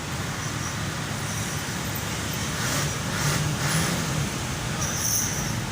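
Street traffic: vehicle engines running with a steady low rumble, swelling as a vehicle passes around the middle, and a short hiss near the end.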